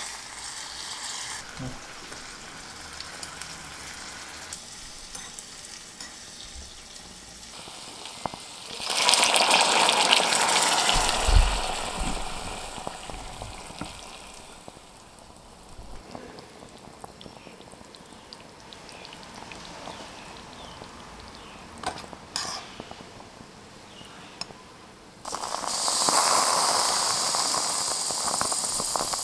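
Food frying in a small pan in a miniature kitchen: a steady low sizzle that jumps suddenly to a loud hiss twice, about a third of the way in and again near the end, as something is added to the hot pan, with light stirring scrapes in between.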